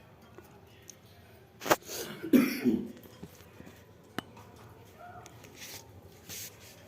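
A cough about two seconds in, just after a sharp click, followed by another click a couple of seconds later.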